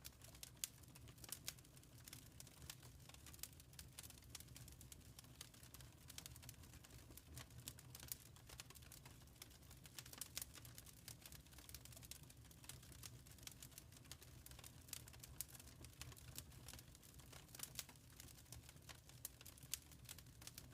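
Faint wood fire crackling, with many small irregular pops and snaps over a low steady rumble.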